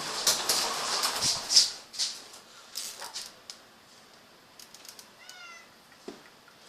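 A frightened domestic cat gives one short meow about five seconds in. It comes after a couple of seconds of loud, hiss-like bursts of noise at the start.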